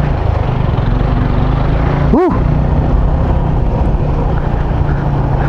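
Motorcycle engine running steadily under way, with wind noise on the microphone. About two seconds in, a brief tone rises and falls in pitch over it.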